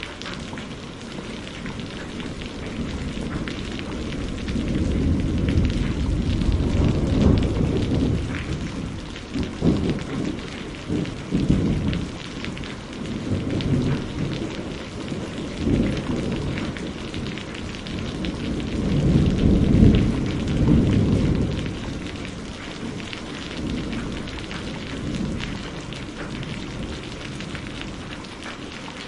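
Steady rain with rolling thunder. Low rumbles build about four seconds in and again about two-thirds of the way through, then fade back to the rain.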